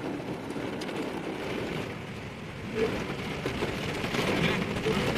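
Car driving along a road: steady engine and road noise, growing louder with more hiss from about three seconds in.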